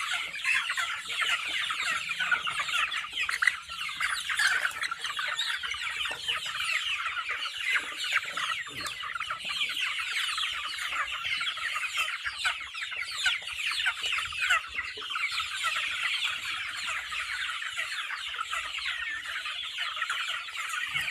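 A flock of native village chickens (ayam buras) calling continuously: many short, high calls overlapping into a steady chatter.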